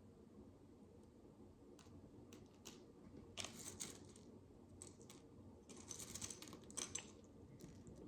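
Tiny plastic micro building bricks clicking and rattling as they are handled. The clicks come soft and scattered, with two busier runs of clicking around the middle.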